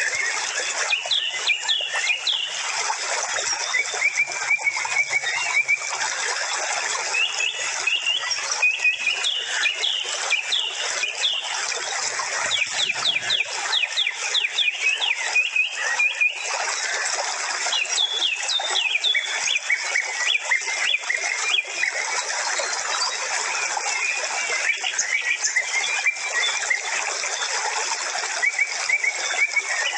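Several birds chirping and twittering without a break, with runs of quick sweeping notes, over a steady hiss.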